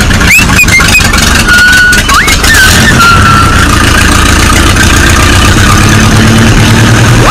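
Tractor engine running steadily with a low chugging pulse, a sound effect laid over a toy tractor. Short whistling squeals rise and fall over it in the first three seconds.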